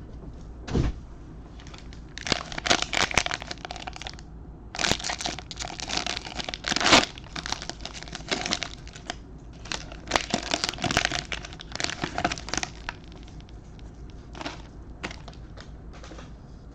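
Trading card pack wrappers being torn open and crinkled by hand, in three spells of a second or three each, with scattered sharp clicks from handling between them.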